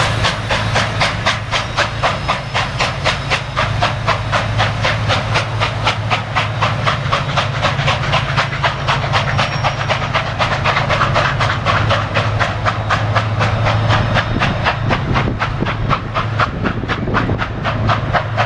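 Train moving slowly, heard from aboard: a loud steady hiss pulsing evenly about five times a second, over a low steady hum.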